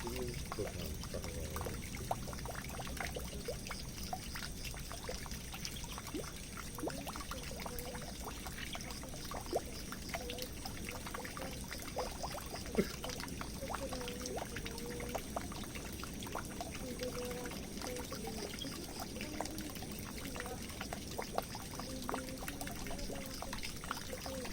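Water running steadily into a drain, pouring and trickling, with many small drips and splashes throughout.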